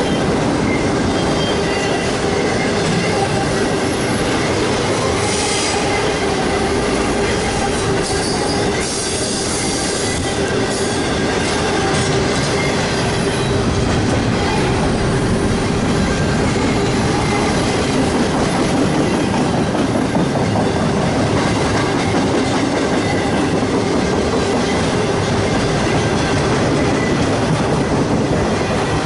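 CSX freight train rolling past, its cars' steel wheels on the rails making a steady, loud rolling noise with a thin, held squeal running through it.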